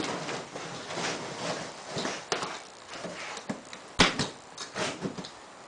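A box and its packaging being handled: irregular rustling with scattered clicks, and two sharp knocks close together about four seconds in.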